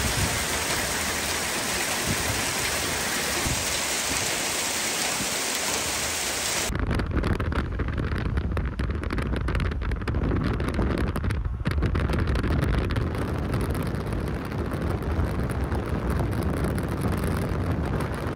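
Steady, dense hiss of heavy rain mixed with small hail falling on lawns and pavement. About seven seconds in it changes abruptly to strong, gusty wind buffeting the microphone with a deep rumble.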